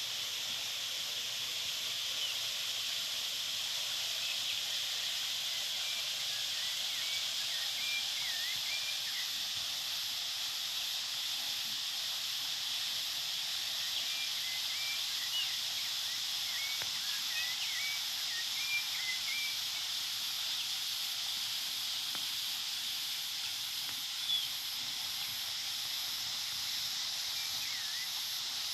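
Outdoor nature ambience: a steady high hiss, with small birds giving faint scattered chirps in short runs.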